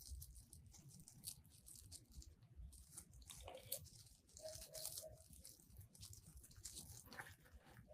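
Faint crinkling and rustling of deco poly mesh ruffles being handled and twisted onto a wreath frame with pipe cleaners.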